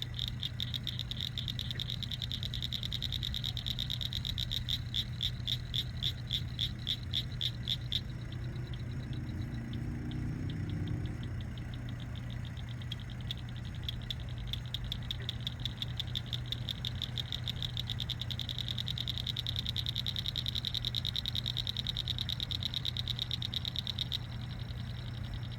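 Frogs calling in a chorus of fast, high pulsed trills, strongest for the first third and again late on, over the steady low hum of a lake aeration pump.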